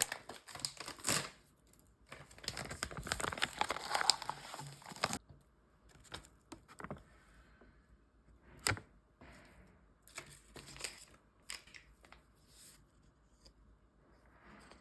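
Crinkling and rustling of something being handled, like packaging, with scattered sharp clicks. There is a dense stretch of rustling from about two to five seconds in, a single sharp click near the middle, and more crinkles later on.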